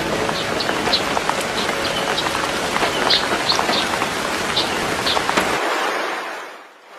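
Rain falling steadily, with scattered short high ticks, fading out over the last second or so.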